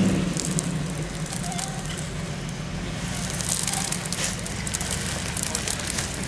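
Off-road vehicle's engine running low and steady after a rev dies away, with scattered crackles and ticks, denser from about halfway through.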